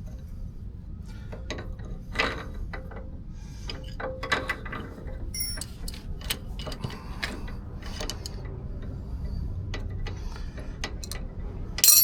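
Hand tools working on metal: irregular clicks and clinks, with a loud metallic clank near the end.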